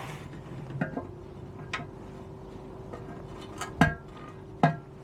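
Metal tool clinking against a stuck fitting on a motorcycle's steel petrol tank: five sharp metallic clicks spaced irregularly, the loudest a little under four seconds in.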